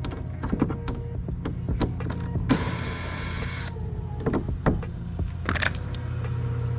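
Drill with a T25 Torx bit running for about a second, backing out a belly-pan screw, with scattered light clicks and clatter from the screws and tools.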